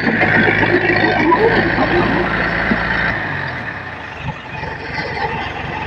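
Heavy diesel construction machinery engine running, its low hum dropping away about three seconds in.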